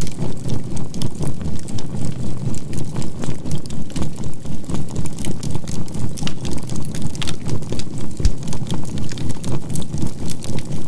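Crackling campfire of burning charcoal, with many sharp little pops, laid over a steady synthetic healing tone (528 Hz with binaural beats) that pulses evenly about four times a second.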